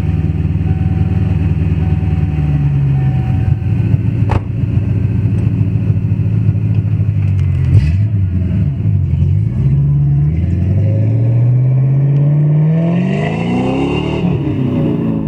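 1996 Ford Mustang GT's 4.6-litre V8 running steadily, with a couple of quick blips of the throttle a little past halfway. Near the end it accelerates, its pitch rising smoothly for several seconds.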